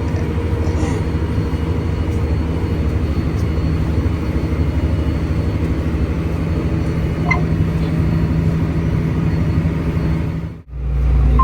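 Tractor engine running steadily while pulling a disc harrow across a field. A brief faint beep sounds about seven seconds in. Near the end the sound cuts out abruptly for a moment, then comes back as a steadier, lower drone.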